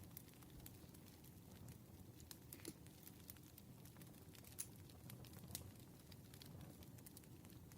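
Campfire crackling faintly: scattered small pops and snaps of burning wood over a soft low rumble, with two sharper pops about four and a half and five and a half seconds in.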